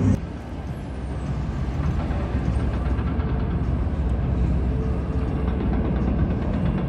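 Steady low rumble of motor vehicle engines.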